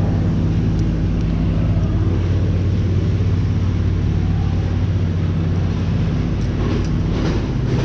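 A motor vehicle's engine running steadily in road traffic, a low, even drone.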